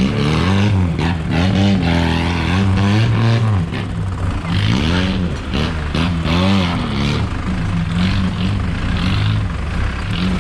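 Off-road 4x4 engine revving under load, its revs rising and falling again and again as the vehicle works over rough ground.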